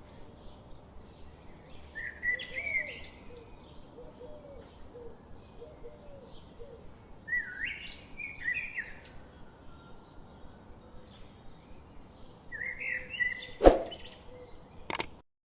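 Birds calling, with three bursts of sliding calls and many faint quick chirps between them. There are two sharp clicks near the end, then the sound cuts off.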